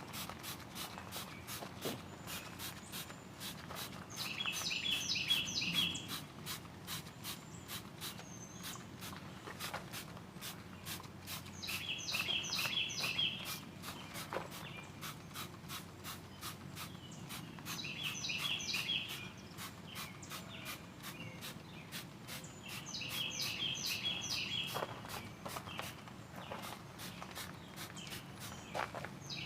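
Many quick squirts from a hand sprayer applying MotorPlast dressing, a few each second, as the liquid is sprayed liberally over the engine bay. A bird sings a short chirping phrase roughly every six seconds.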